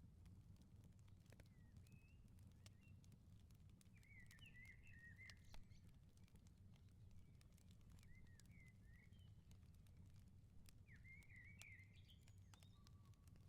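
Faint outdoor wood fire crackling, with scattered sharp pops, one a little louder about halfway through, over a low steady rumble. Small birds chirp in short twittering phrases three times.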